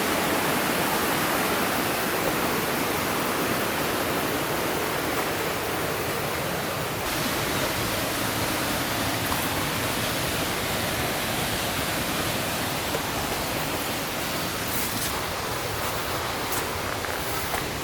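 Rushing water of a mountain gorge stream, a steady full hiss, with the highest part of the hiss dropping off slightly about seven seconds in. A few faint clicks come near the end.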